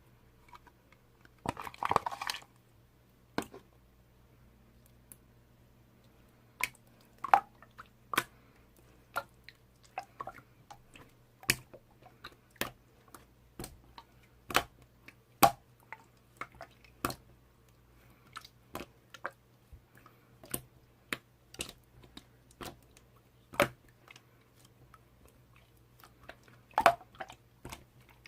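Slime being pressed and squeezed by hand, giving sharp, wet clicks roughly once a second. There is a louder burst of crackles about two seconds in.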